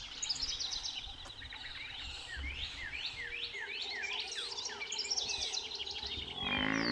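Birds calling, with a quick run of repeated sweeping whistled notes in the middle. Shortly before the end a loud, low, drawn-out animal call begins.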